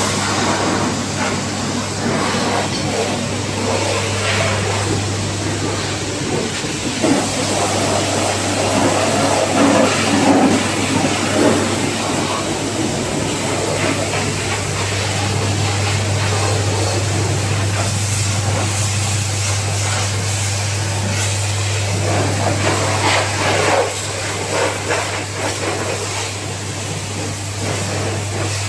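Pressure washer running at a car wash: a steady motor hum under the hiss of the water spray.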